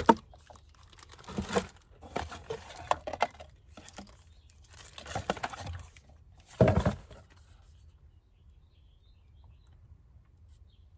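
Plastic packaging crinkling and rustling in irregular bursts as parts are handled and unwrapped, with the loudest rustle about six and a half seconds in; the handling stops about seven and a half seconds in.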